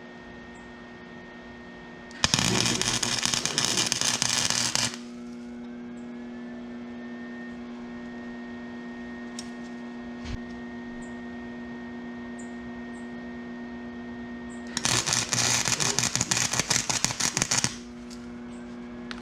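Two bursts of arc welding on a scooter muffler: a loud, dense crackle lasting about two to three seconds each, the second about ten seconds after the first. Between the bursts the welder hums steadily.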